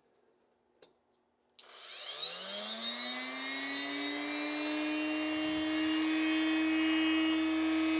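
A click, then about a second and a half in a small electric grinder motor is switched on. Its pitch rises as it spins up to speed, then it runs steadily. It is being used to take a little more off the ends of piston rings that are still too tight in the cylinder.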